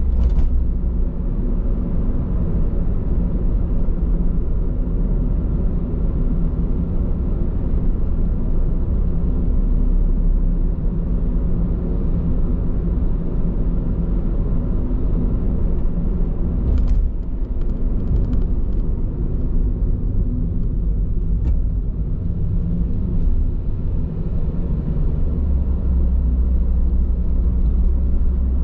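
Steady low road and tyre rumble of a moving car heard from inside the cabin, on Bridgestone Regno tyres. A short cluster of light clicks comes about two-thirds of the way through, with one more a little later.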